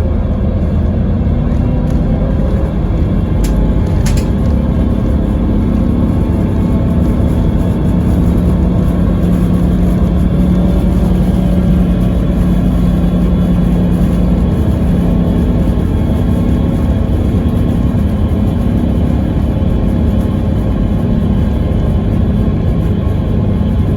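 Scania K320IB coach's diesel engine and ZF Ecomat automatic gearbox running at a steady pitch under even load, as at cruising speed, with a couple of faint clicks about four seconds in.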